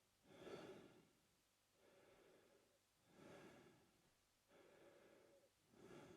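A man breathing slowly and steadily through his mouth, faintly: about two and a half breath cycles, each a softer breath followed by a louder, airier one.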